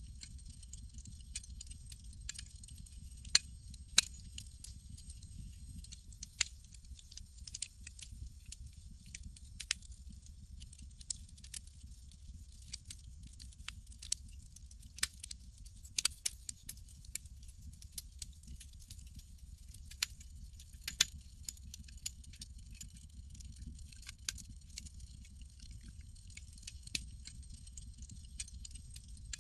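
Campfire crackling: irregular small pops and snaps, a few much louder than the rest, over a steady low rumble and a faint high hiss.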